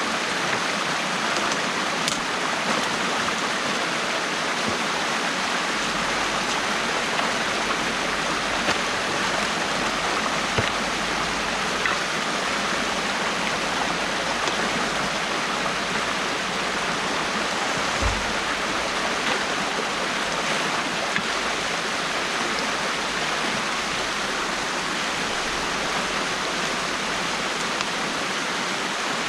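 Water rushing steadily through a beaver dam that is being dismantled, with a few faint knocks and a short low thump about 18 seconds in.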